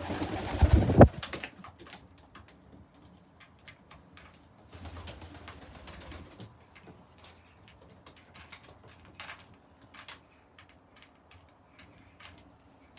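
Pigeons in a loft, with faint cooing and scattered small clicks and scuffs. A loud, rushing burst of noise fills the first second.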